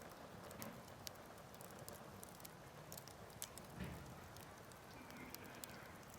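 Wood fire crackling faintly: scattered sharp pops and ticks over a low, steady hiss, with a soft dull knock a little before four seconds in.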